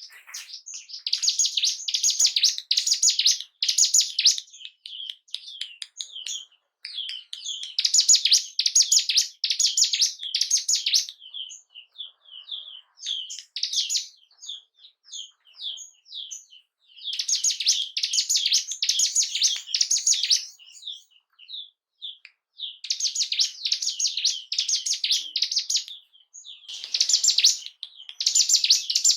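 Ciblek gunung, a prinia, singing: five bursts of rapid, high repeated notes, each a few seconds long, with scattered single chirps between them.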